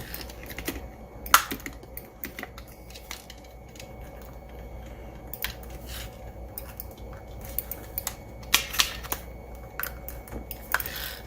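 Scattered plastic clicks and taps from handling a Roomba i7 drive wheel as a replacement rubber tire is worked onto it, with sharper clicks about a second in and again near the end.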